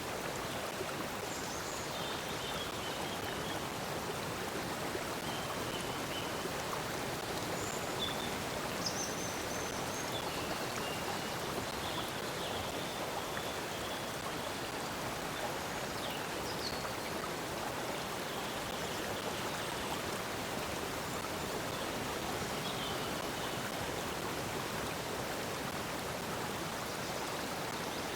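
Steady rush of flowing stream water, with brief high bird chirps and whistles scattered over it.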